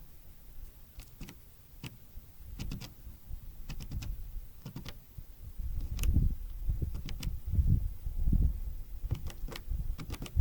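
Irregular sharp clicks and taps of tits pecking and landing at a seed feeder, over an uneven low rumbling thudding that grows louder about six seconds in.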